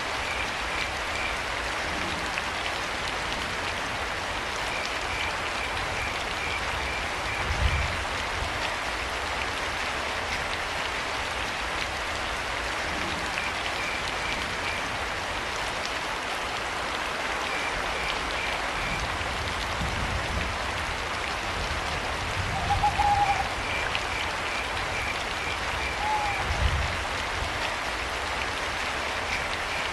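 Steady rain falling, with crickets chirping in short quick trains every few seconds and two brief owl hoots about two-thirds of the way in. A few low dull thuds sound under the rain, the loudest at about eight seconds in.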